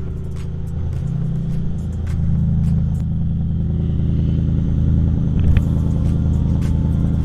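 Twin-turbo 5.0 V8 of a swapped Ford Raptor running with a deep, steady rumble, stepping up in level about one and two seconds in.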